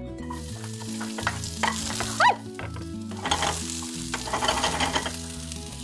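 Garlic sizzling in hot olive oil in a frying pan as it is sautéed, the sizzle growing stronger about halfway through.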